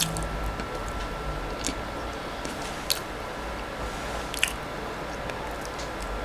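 A person chewing soft Mexican sweet bread (pan dulce) with the mouth closed, close to the microphone, with a few sharp wet mouth clicks spread through it. A faint steady high whine sits underneath.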